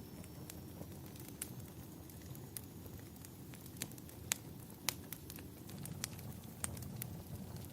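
Wood fire crackling, with irregular sharp pops over a low steady rumble; the two loudest pops come a little past the middle.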